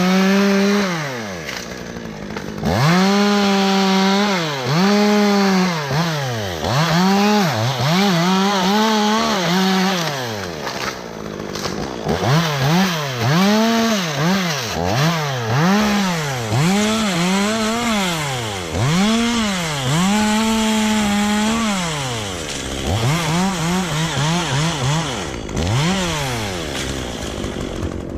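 Chainsaw engine revved up to full throttle and let fall back again and again while cutting dead elm wood, with a quick run of short revs near the end.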